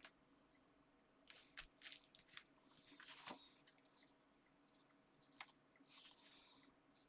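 Faint rustling, crinkling and light taps of paper and card being handled and layered together, in a few short bursts over a faint steady hum.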